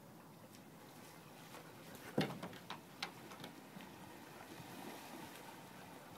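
Faint background hiss with a few sharp clicks or knocks, the loudest a little over two seconds in and a smaller one about a second later.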